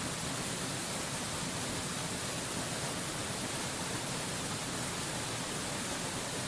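Mountain waterfall rushing in a steady, unbroken hiss, with no changes or separate events.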